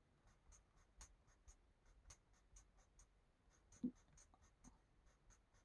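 Faint scratching of a marker tip on paper in short quick strokes, about four a second, as small spaces of a colouring page are filled in. One soft thump about four seconds in.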